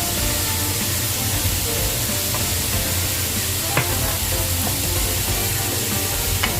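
Food sizzling as it fries in a pan and is stirred, with two sharp clicks of a utensil against the pan, one about midway and one near the end.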